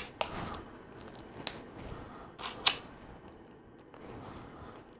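Small plastic LEGO pieces clicking and tapping as they are handled and fitted together: a few scattered sharp clicks, including a close pair about two and a half seconds in.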